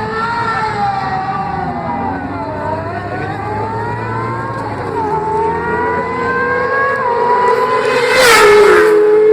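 Racing motorcycle engines accelerating hard, the pitch climbing and dropping sharply at each gear change. About eight seconds in, a bike passes close with a loud rush, and its engine note falls as it goes away.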